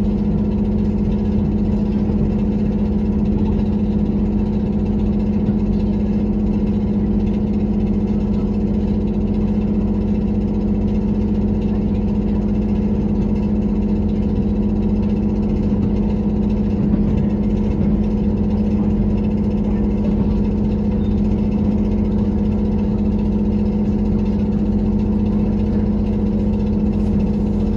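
Diesel engine of a JR Kyushu KiHa 183 series 1000 railcar heard from inside the passenger car, running as a steady hum with one strong unchanging tone. The rattling (garagara) noise in it is one that the rider suspects is an engine fault or the age of the train.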